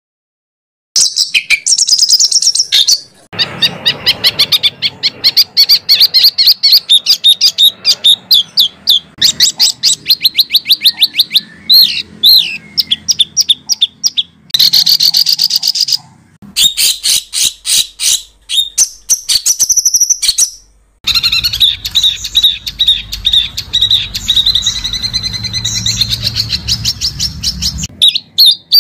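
Songbird song made of fast rolling trills: long runs of rapid, sharp, high-pitched repeated notes mixed with harsher grating phrases. It comes in edited segments that cut off abruptly, with brief silences between them.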